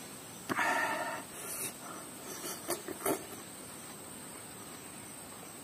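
A person eating pieces of raw star fruit, with mouth sounds of biting and chewing. A louder bite or mouth noise comes about half a second in, a few small mouth clicks follow around three seconds in, and then it goes quiet.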